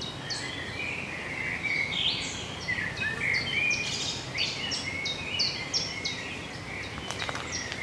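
Several songbirds chirping and singing, a steady run of short, quick whistled notes that overlap, over a low outdoor rumble.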